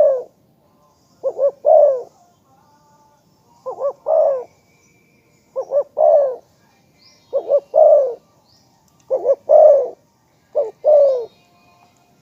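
Spotted dove cooing its song over and over, about one phrase every two seconds: two short coos followed by a longer, falling coo.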